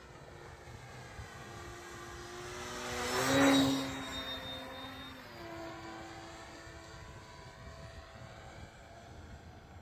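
Electric motor and propeller of a balsa RC Fieseler Storch model airplane in flight, whining as it passes close by. It grows louder to a peak about three and a half seconds in, then drops in pitch and fades as it flies away.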